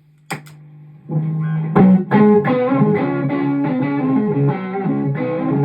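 Clean electric guitar through a Xotic Super Sweet boost pedal into a Strymon ACS1 amp simulator, no distortion engaged: a run of picked notes at a steady rhythm, the boost pushing the clean tone toward the edge of breakup. A low hum and a single click come before the playing starts about a second in.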